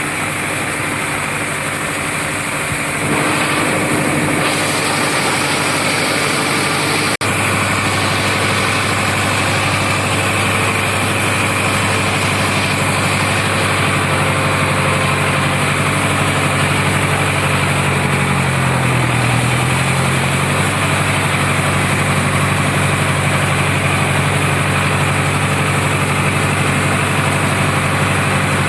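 Sonalika 750 tractor's diesel engine running steadily in a muddy field; it gets louder about three seconds in, and about two-thirds of the way through its pitch dips briefly and recovers, as if pulling under load.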